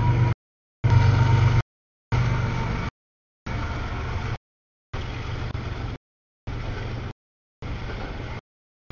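Double-stack container freight train rolling past a grade crossing: a steady rumble of wheels and cars, heaviest in the first few seconds. A thin steady high tone is heard in the first second or so. The sound cuts out completely for about half a second roughly once a second, a dropout in the feed rather than the train.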